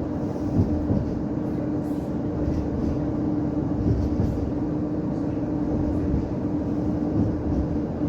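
Tampere tram (Škoda ForCity Smart Artic) running along the line, heard from inside the car: a steady rumble with a constant low electric hum.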